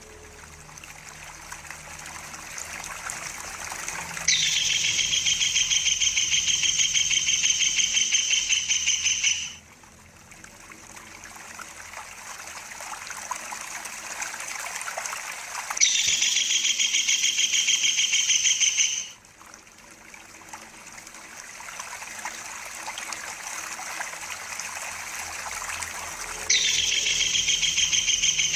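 Tengkek udang (kingfisher) giving its rolling call: a fast, buzzy trill in three loud stretches of a few seconds each, every one opening with a short downward slide. Between them a soft rushing hiss like running water slowly grows louder.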